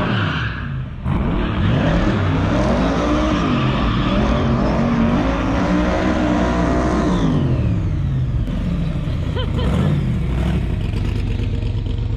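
V8 engine of a Cobra-style roadster under way, its pitch rising and falling over and over as it accelerates and eases off, then settling into a steadier run for the last few seconds.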